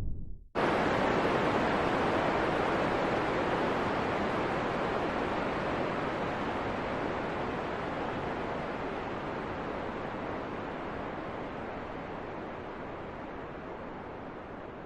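Steady rushing hiss of wind with no gusting tones. It cuts in abruptly about half a second in, after a brief gap, then slowly fades.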